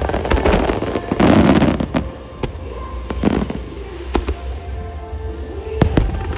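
Aerial fireworks of a music starmine bursting and crackling over music played through the show's loudspeakers: a loud burst about a second in, then several sharp bangs later.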